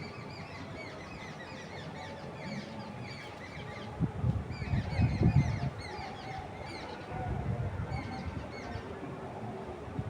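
Many small birds chirping, with quick high notes repeating. Low gusts of wind rumble through twice, loudest about four to five seconds in and again around seven seconds.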